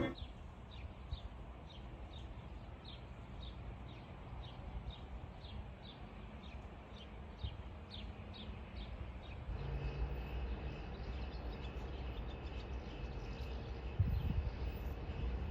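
A bird calling with short, falling chirps about twice a second over quiet outdoor background. About nine and a half seconds in, a steady hum with a low rumble takes over.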